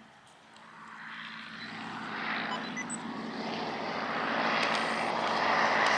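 Aircraft engine noise growing steadily louder as a plane approaches, a rising rush with a low steady hum beneath it.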